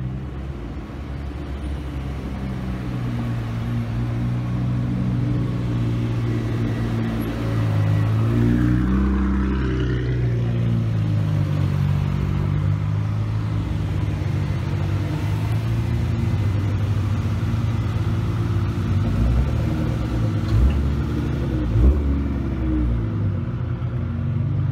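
Car engines running with a steady low drone; about nine seconds in the pitch dips and climbs again as an engine is revved. A short sharp knock sounds near the end.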